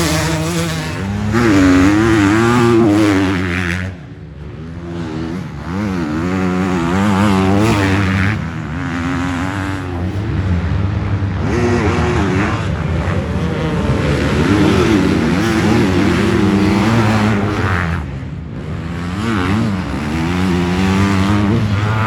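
Several motocross bikes' engines revving hard and easing off as they race, their overlapping pitches rising and falling with the throttle. The din drops briefly about four seconds in and again near the end.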